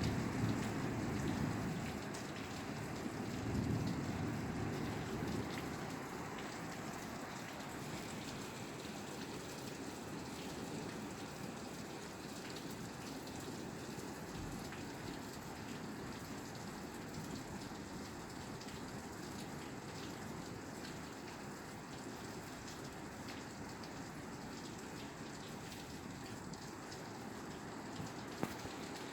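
Steady rain falling on a roof, a continuous even hiss of drops. Two low rumbles swell up within the first five seconds, and a couple of faint clicks come near the end.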